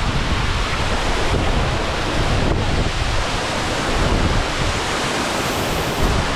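Waterfall rushing in a loud, steady roar, with wind buffeting the microphone.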